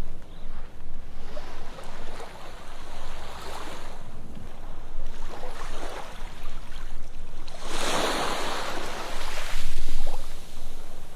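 Sea waves breaking and washing up on a sandy beach, a rolling hiss that swells and falls several times, with the largest wave breaking about eight seconds in.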